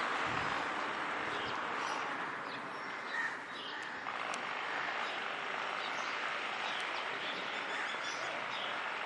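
Small birds chirping now and then over a steady outdoor background hiss.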